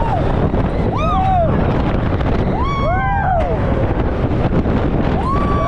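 Riders screaming on the Iron Gwazi roller coaster while the rush of air roars over a wrist-mounted camera microphone. Several long screams rise and fall in pitch, two overlapping about three seconds in, and a longer one begins near the end.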